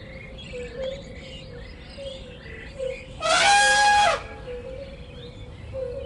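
Animal sound-effect track: birds chirping with a repeating low pulsing call behind them, and a loud, drawn-out animal call of about a second, about three seconds in.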